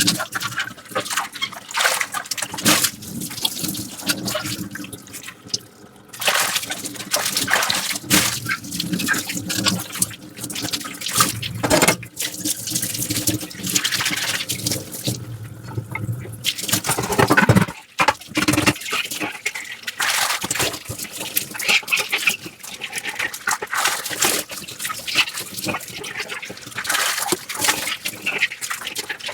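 Dishes being scrubbed with a soft sponge at a sink: wet sponge squishing and rubbing on the dishes, water trickling and dripping, and small clinks and knocks as dishes are handled, in an uneven rhythm with brief pauses.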